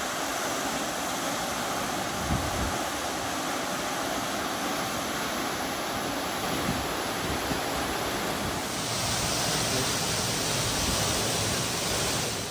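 Steady rushing of flowing water, with a cut about nine seconds in to a slightly louder, brighter stretch of the same kind of water noise.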